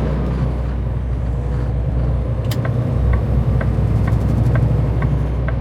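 Semi truck's diesel engine running steadily, heard from inside the cab while the truck rolls slowly. From about a second and a half in, a light ticking sounds about twice a second.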